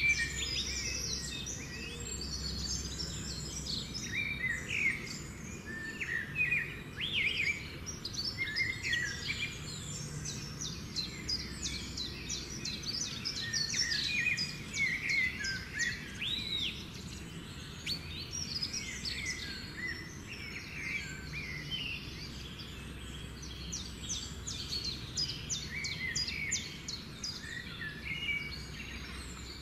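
Small birds chirping and twittering continuously, many short quick calls overlapping, over a steady low background noise.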